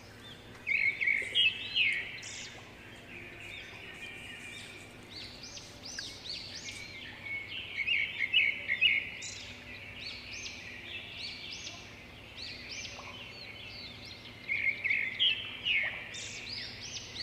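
Birds chirping in bursts of quick repeated calls, loudest about a second in, around the middle, and near the end.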